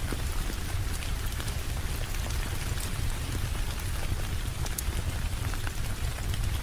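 Steady rain: an even hiss of falling rain with scattered sharp drop ticks, over a constant deep low rumble.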